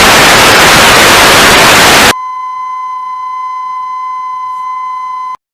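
Loud TV-style static hiss, which cuts off sharply about two seconds in. It gives way to a steady, unwavering test-tone beep that stops abruptly near the end.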